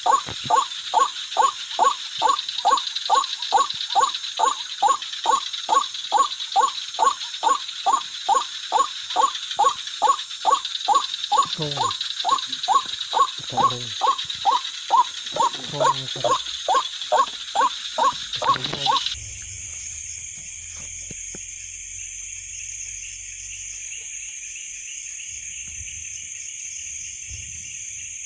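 White-breasted waterhen (ruak-ruak) calling over and over, a little over two loud calls a second, stopping abruptly about two-thirds of the way through. After that only the steady chirring of night insects remains.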